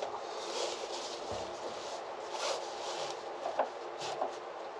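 Faint rustling and a few light clicks of peel ply fabric being handled and laid out over wet epoxy, over a steady background hiss.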